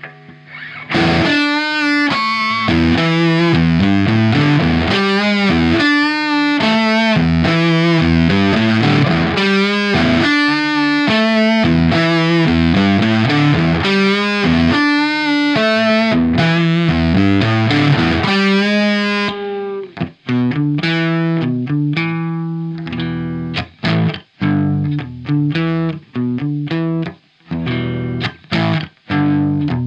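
Electric guitar (Fender Telecaster) played through a Tone Bender MKII-style germanium/silicon fuzz pedal into a Marshall SV20H amp, riffing with thick fuzz-distorted, sustained notes and chords. About 19 seconds in the tone turns darker and the playing changes to short, choppy stabs with brief gaps between them.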